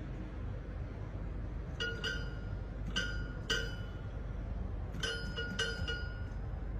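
A pet picking out single ringing, bell-like notes on a small instrument, about six of them, loosely in pairs and at an uneven pace.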